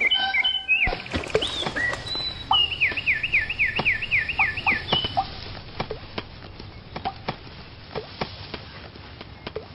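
Small birds chirping: a few chirps at the start, then a quick run of about eight falling chirps, then quieter with only scattered faint ticks for the second half.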